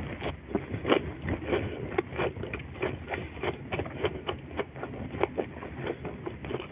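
Close-miked chewing of raw lettuce: irregular crunches and wet mouth clicks, about two or three a second.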